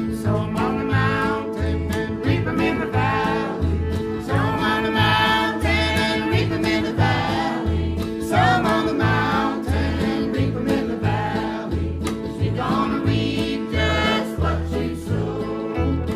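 Old-time string band song: voices singing over guitar and a steady bass line of about two notes a second.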